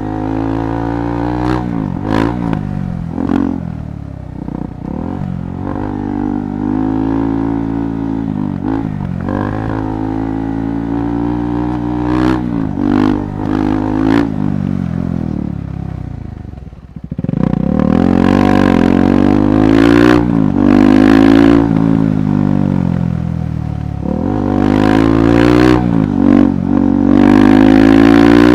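KTM 390 Adventure's single-cylinder engine revving up and down through the gears, with scattered sharp knocks and clatter. About two-thirds of the way through the engine note drops away for a moment, then comes back louder, pulling harder.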